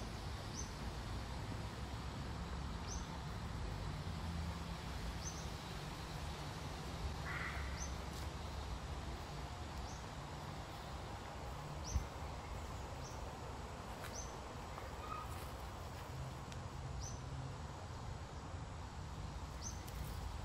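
Outdoor ambience: a bird repeating a short, high call every two seconds or so over a low steady rumble, with a single sharp click about halfway through.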